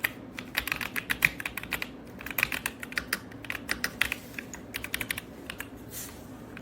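Typing on an RK Royal Kludge S98 mechanical keyboard in its stock, unmodified state: quick runs of key clicks broken by short pauses.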